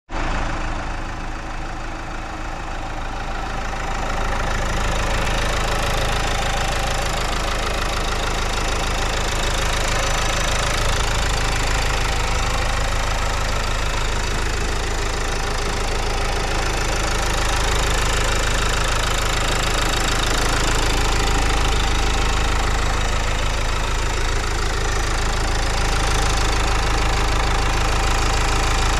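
Renault Samsung QM3's 1.5 dCi diesel engine idling steadily with the hood open, heard close up over the engine bay; it gets louder about four seconds in.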